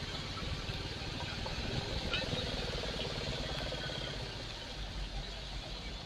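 Royal Enfield Classic 350's single-cylinder engine running on the move, a steady low pulsing under a continuous hiss of wet-road and rushing-air noise.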